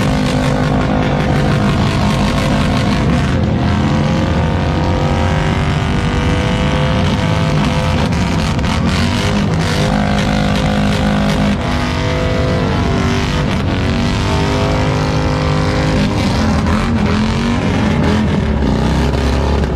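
Motorcycle engine revved hard and held high, its pitch climbing and dropping again several times.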